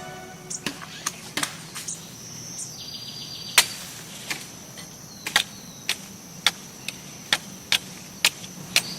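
Sharp knocks of hand-tool building work, irregular at first and about two a second in the second half, with insects trilling in the background.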